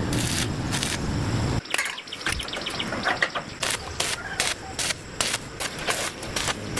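A motor running with a low rumble that cuts off sharply about a second and a half in, followed by a run of irregular sharp clicks and taps.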